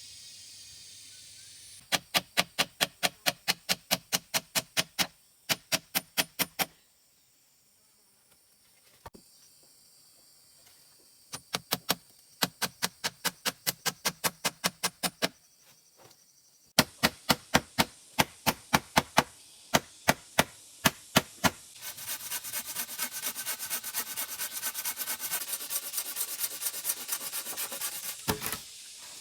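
Knife chopping on a wooden board in runs of evenly spaced strikes, about four a second, with short pauses between runs. Near the end comes a faster, denser run of scraping strokes.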